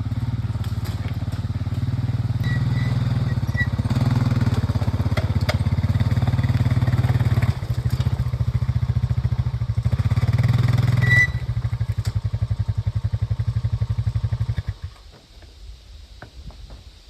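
A small engine running steadily with a fast low pulse, its level shifting a few times, then shutting off near the end.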